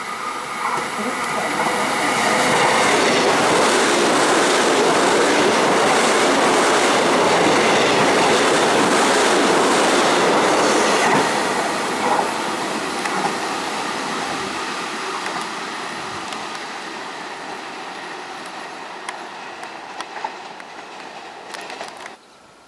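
Korail class 311000 ten-car electric multiple unit running on the station tracks. Its wheel and rail noise becomes loud within the first two seconds, holds, then fades steadily over the second half, with a few sharp ticks from the wheels late on. The sound cuts off suddenly near the end.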